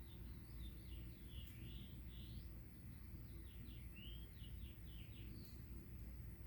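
Faint bird chirping, a run of short quick chirps and twitters, over a steady low hum.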